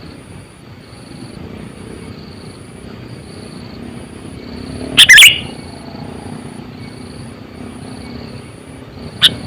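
Sooty-headed bulbul (kutilang) calling: a loud, short burst of notes about five seconds in, and another pair of short calls near the end, over a low steady background.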